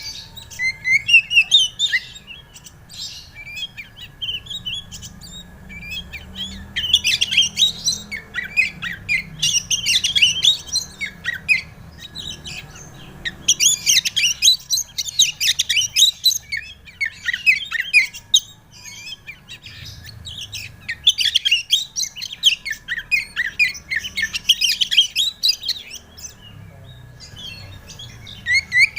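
Oriental magpie-robin (kacer) singing in bursts of rapid, varied chirps and whistles several seconds long, separated by short pauses.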